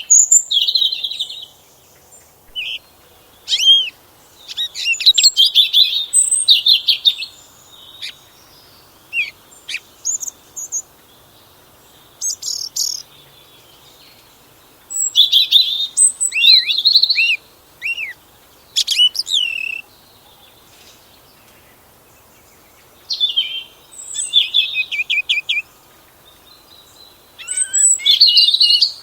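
Garden songbirds singing: phrases of quick chirps, trills and falling whistles come in clusters every few seconds, with short pauses between them.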